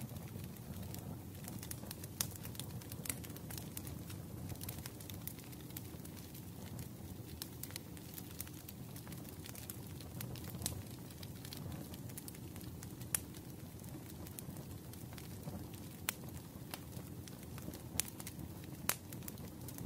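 Wood fire crackling: a steady low rumble of flames with scattered sharp pops, a handful of them louder than the rest.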